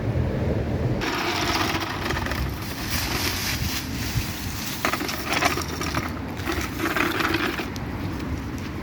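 Dry fallen leaves rustling and crunching, starting about a second in and coming in uneven patches of crackles.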